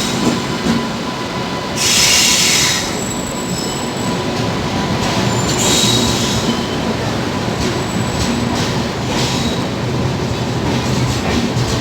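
Train wheels rolling on the rails with a steady rumble, and the wheels squealing in short high-pitched bursts about 2, 6 and 9 seconds in.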